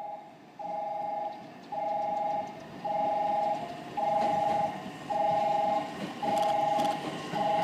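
Electronic railway warning signal beeping: a two-note tone repeating about once a second, each beep lasting most of a second. A train's rumble and wheel clicks grow louder under it as the train comes in.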